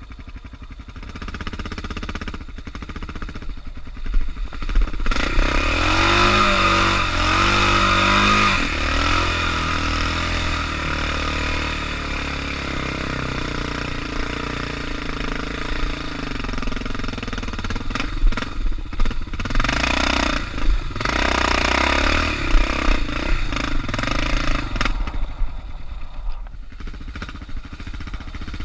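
Suzuki DR650's single-cylinder four-stroke engine running under load on a dirt trail. It picks up about five seconds in, revs up and down, and eases off near the end, with short knocks over the top.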